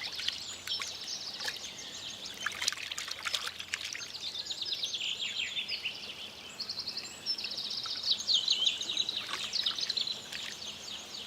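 A shallow stream trickling and splashing, with songbirds singing over it in quick chirps and rapid trilled phrases.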